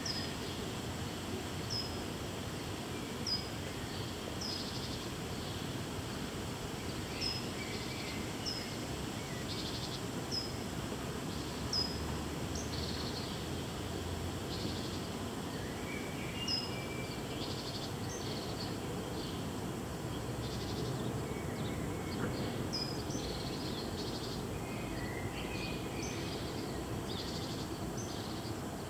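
Small birds chirping, short high calls repeated every second or two, over a steady low background rumble of outdoor noise.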